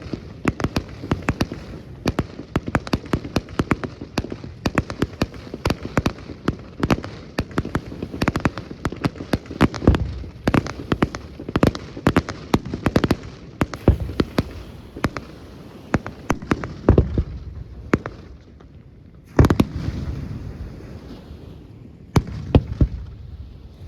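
A fireworks display: a dense, rapid run of bangs and crackling, thinning after about 18 seconds to a few single loud booms.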